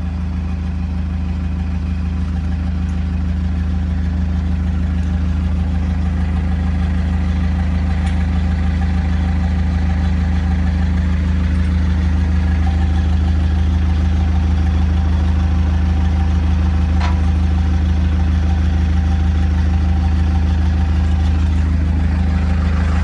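A large vehicle engine running steadily with a deep, even hum, getting slightly louder over the stretch.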